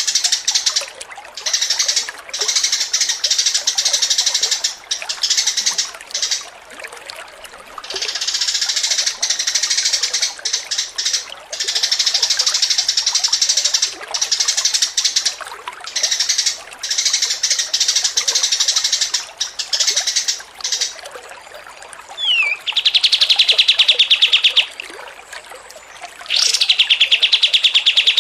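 Songbird chattering in quick, dense bursts of high calls, then a short downward whistle and two long, very fast rattling trills, the second starting about two seconds after the first ends.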